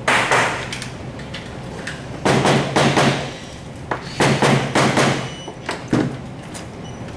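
Four loud bursts of metalworking noise about two seconds apart, each lasting under a second, some with a low hum underneath.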